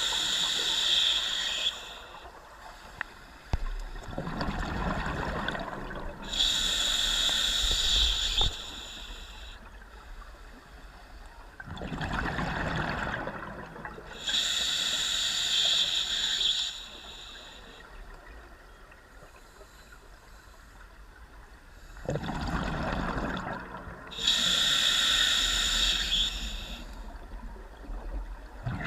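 Scuba diver breathing through a regulator underwater: a hissing inhale, then a rush of exhaled bubbles, repeated in about four slow breaths.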